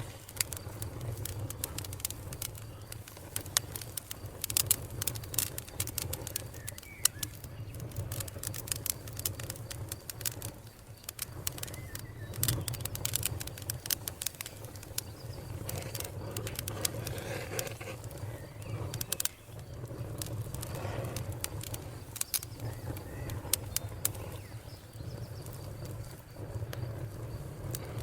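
Wood fire crackling, with frequent sharp snaps and pops over a low, steady rumble of flame.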